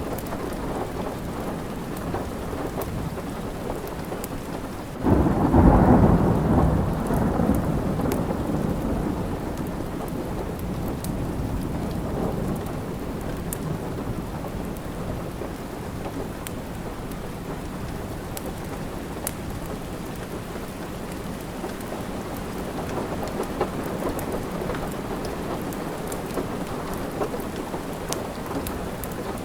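Steady rain with a thunderclap about five seconds in that rumbles away over several seconds.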